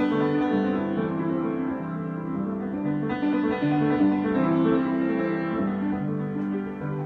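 Piano improvisation: a continuous flow of sustained notes and chords in the middle and lower register, changing about every half second.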